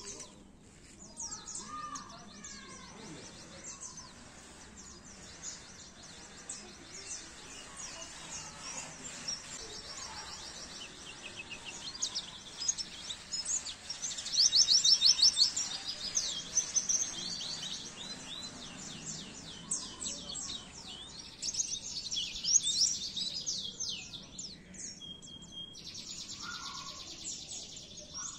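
White-eye (pleci) song: rapid, high twittering trills and chirps, loudest in a burst about halfway through.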